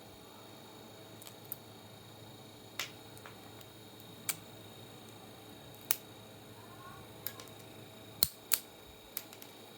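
About a dozen sharp clicks and taps at uneven intervals, the two loudest close together near the end, over a faint steady electrical hum. These are typical of small hard parts and tools being handled during a power supply teardown.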